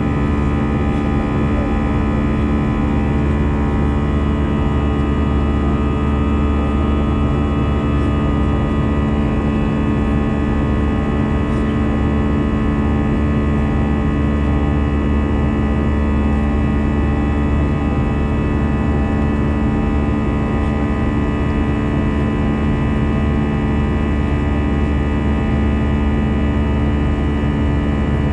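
Steady jet engine and airflow noise in the cabin of an Airbus A320-214 climbing out after takeoff, with several constant engine tones over a continuous roar.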